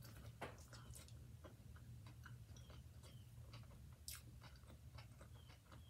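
Faint close-up chewing of a bite of veggie burger on a toasted brioche bun, heard as scattered small mouth clicks and smacks, a couple a little louder about half a second in and about four seconds in.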